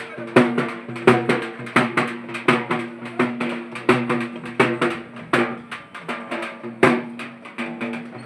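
Drum music: loud, fast drum strikes, about three strong beats a second, over a steady low sustained note.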